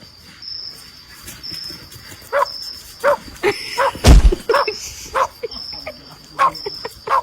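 Dog barking in short, sharp barks, irregularly spaced, with a loud thump about four seconds in. Insects keep chirping steadily in the background.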